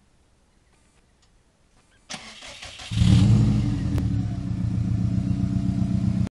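Subaru Impreza WRX STI's turbocharged flat-four engine being cranked by the starter about two seconds in and catching about a second later, then running steadily.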